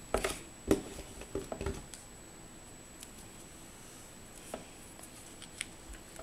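Colouring supplies being picked up and handled: a few light clicks and knocks in the first two seconds, then a quiet small room with a few faint ticks.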